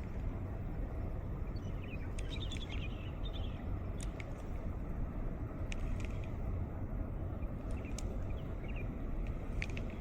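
Steady wind rushing, heaviest in the low end, with a bird's quick twittering call about two to three seconds in and a few faint ticks.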